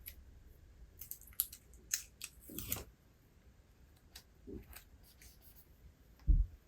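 Paper handling at a book: crisp crackles and rustles as a page is turned, with a swish about two and a half seconds in and a softer rustle later. A single dull thump near the end is the loudest sound.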